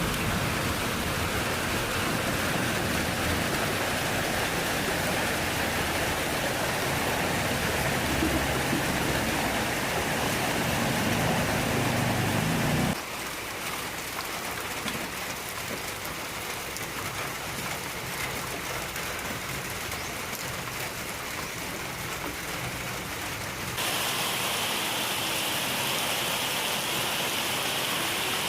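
Steady rain falling, an even hiss and patter. It drops abruptly to a quieter, softer rain about halfway through and comes back up just as abruptly near the end.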